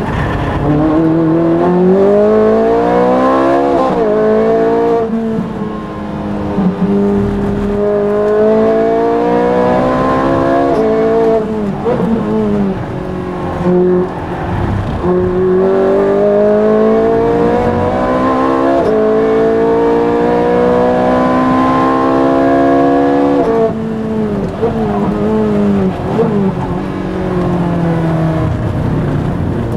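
Ferrari race car's engine heard from inside the cockpit, revving hard through the gears. Its pitch climbs in long sweeps, each broken by a sudden drop at an upshift. Near the end the engine lifts off and blips through quick downshifts for a corner.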